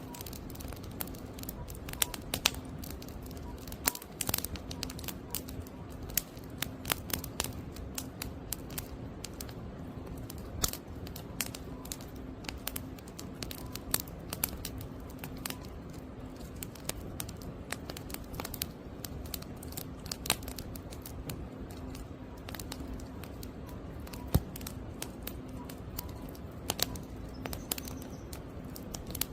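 Wood fire burning: irregular sharp crackles and pops of burning logs over a steady low hiss, with a few louder pops scattered through.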